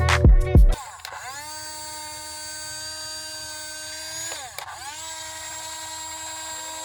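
Music cuts off less than a second in. A small electric motor then spins up to a steady whine, stops for a moment about four and a half seconds in, and spins up again.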